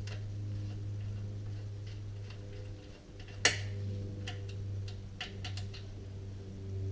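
A sharp metallic knock about halfway through, then several lighter metal clicks, as a hand tool works on the motorcycle's engine-mount through-bolt, over a steady low hum.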